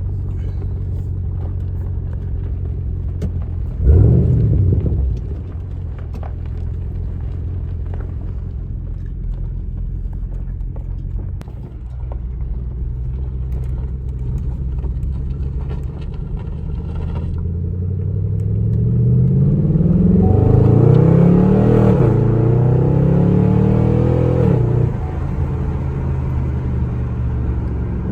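2015 Camaro SS's 6.2-litre V8 through a Borla ATAK axle-back exhaust with muffler delete, idling with a deep rumble. A short rev about four seconds in; later the engine note climbs in several rising pulls, each dropping back, before settling near the end.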